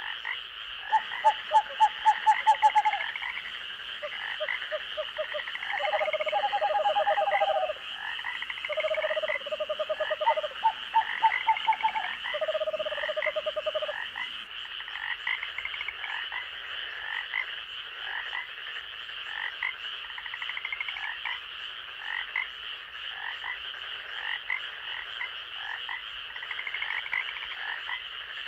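Night chorus of frogs and insects: a steady high insect trill under repeated short chirping calls. Through the first half, frogs give long trains of pulsed calls. The loudest is a rapid series of sharp pulses starting about a second in.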